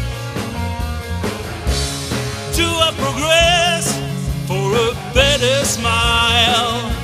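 Indie rock song with a post-punk edge, full band playing. A wavering melodic line comes in a few times over the steady bass and drums.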